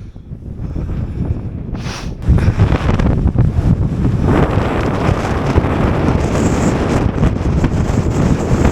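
Strong wind buffeting the microphone, a rumbling rush of noise that gets much louder about two seconds in and stays loud.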